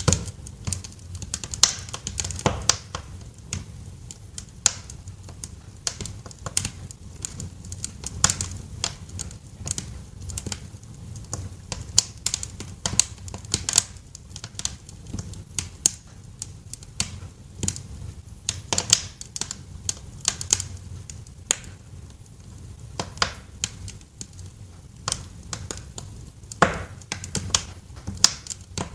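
Wood fire crackling in a fireplace: irregular sharp pops and snaps, several a second, over a low steady rumble of the burning.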